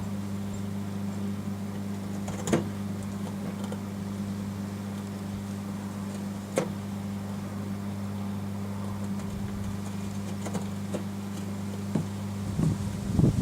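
Microwave oven running with a steady low hum, broken by a few sharp pops and a burst of crackling near the end, from the light bulb, broken glass, melted candle wax and battery heating inside.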